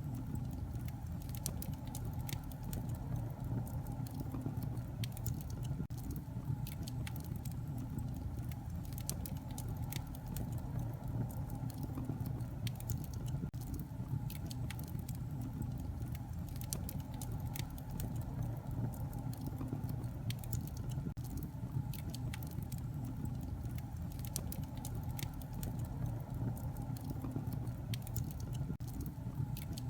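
Wood fire burning in a fireplace: a steady low rumble of flames with many small sharp crackles and pops scattered irregularly throughout.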